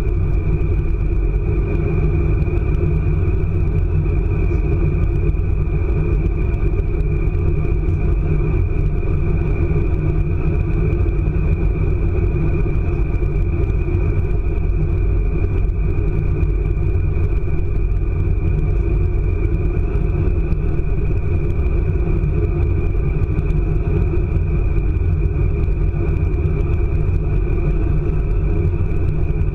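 ICE high-speed train heard from inside the carriage while running at speed: a loud, steady rumble with a thin, constant high whine over it.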